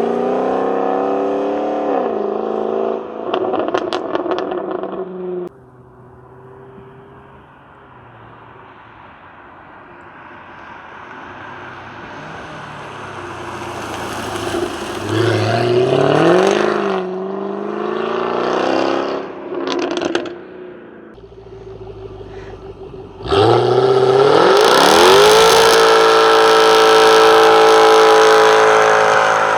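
2015 Jaguar F-type R's supercharged V8 through its active exhaust, revving and accelerating in bursts, with a few sharp pops as the throttle comes off. Partway through it drops abruptly to a quieter rising rush, and near the end a hard full-throttle pull climbs steeply in pitch and then holds high and loud.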